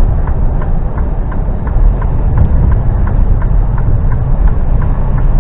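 Articulated lorry's diesel engine running, heard from inside the cab as a heavy low rumble, with a light regular ticking about four or five times a second.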